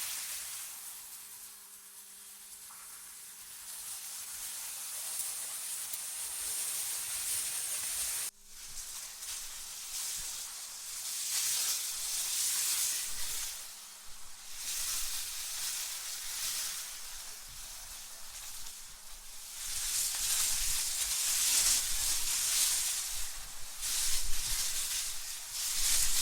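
Synthetic wind ambience: a high hiss that swells and fades in gusts every few seconds, over a faint steady low hum, with an abrupt break about eight seconds in.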